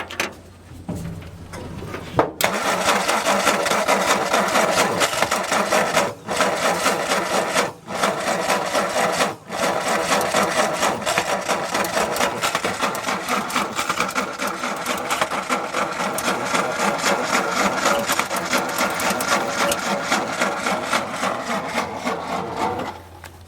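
1962 Ford F-350's engine cranking over on the starter, in several stints with short breaks about 6, 8 and 9.5 seconds in, then held for a long stretch without catching, to pull fuel through the new fuel pump on a weak battery.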